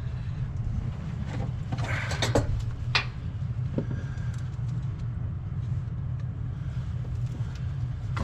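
Steady low mechanical hum, with a few short clicks and knocks of tools being handled about two to three seconds in.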